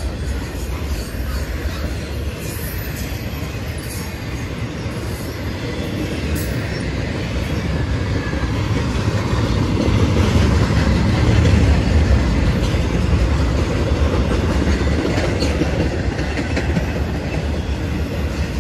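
CSX intermodal freight train rolling past, its wheels clattering over the rail joints in a steady rumble that grows louder toward the middle and eases off near the end.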